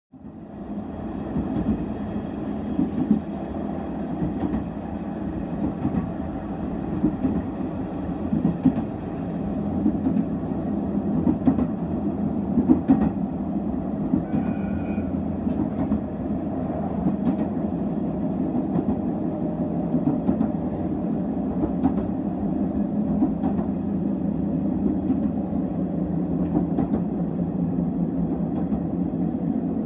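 Sanriku Railway diesel railcar running on the line: a steady rumble of engine and wheels on rail, with scattered short clicks.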